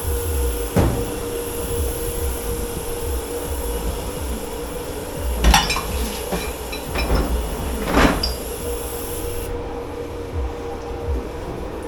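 Dishes and utensils being handled in a dish pit: knocks, clinks and scraping, with three sharper clatters, one under a second in, one about halfway and one about two-thirds through, over a steady machine hum.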